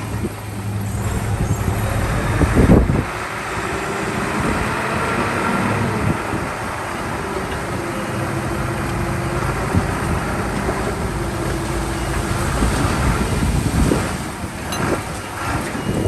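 Heavy diesel machinery running steadily, with a loud thud about three seconds in and a few knocks near the end.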